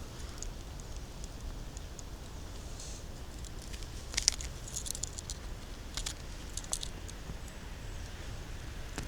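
Dry leaves and twigs crackling on the forest floor, a scatter of small snaps with the sharpest cluster a little before the middle and a few more after it.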